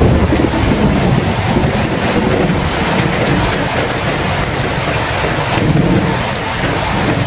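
Steady heavy rain, with low rumbling thunder swelling in the first second and again near the end.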